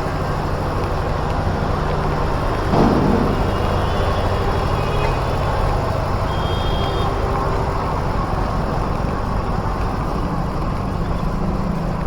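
Steady rumbling noise of a moving vehicle, with one sharp knock about three seconds in and faint high tones a few seconds later.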